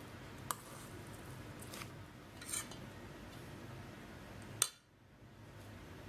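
Light kitchen handling sounds: a click about half a second in, a short scrape around two and a half seconds, and a sharp click of a utensil or container just before five seconds, after which the background drops away.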